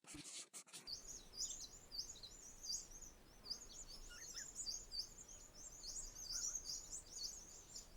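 Birds chirping: a continuous run of short, high twittering notes that starts about a second in, over a faint steady hiss.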